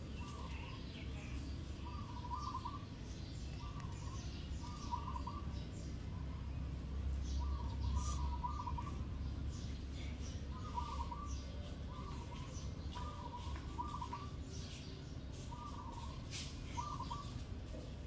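A bird calling over and over in short phrases of a few quick notes, a dozen or so phrases, every second or two. A steady low rumble runs underneath and swells briefly about halfway through.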